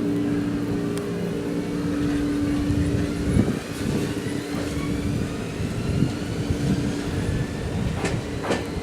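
Electric train accelerating: its motor whine rises steadily in pitch, with a steady hum that stops about three seconds in and wheels knocking over rail joints several times.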